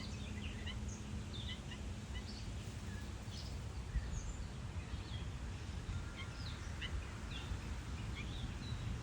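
Several birds chirping and whistling in short, scattered calls over a steady low background rumble.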